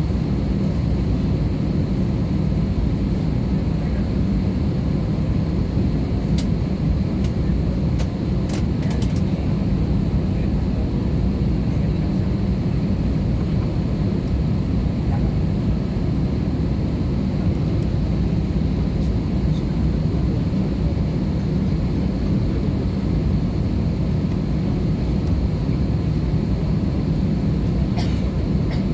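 Steady drone inside the cabin of an Airbus A320-214, its CFM56 engines and the airflow making an even, low noise that neither rises nor falls, with a few faint clicks about a third of the way in.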